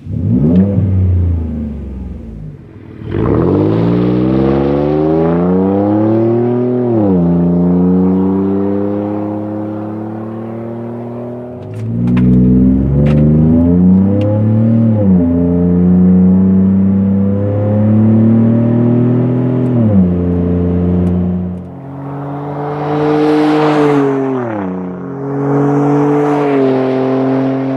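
Ford F-150's 3.5L EcoBoost twin-turbo V6 heard through a Flowmaster Outlaw cat-back exhaust, accelerating several times. Each time the pitch climbs for a few seconds and then drops as it lets off or shifts, with steadier running in between.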